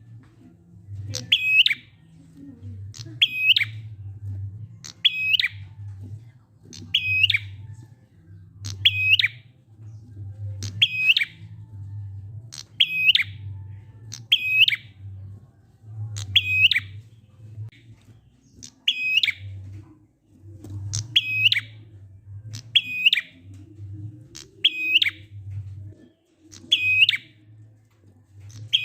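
Prinia (prenjak) giving its slow, evenly spaced 'ngalun' call: one short, sharp, dipping chirp about every two seconds, repeated over and over, used as a lure to get silent prenjak to sing. A low hum runs beneath the calls.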